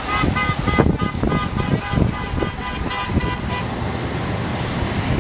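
A horn beeping in quick short toots, about four a second, stopping about three and a half seconds in, over a steady traffic rumble and wind on the microphone.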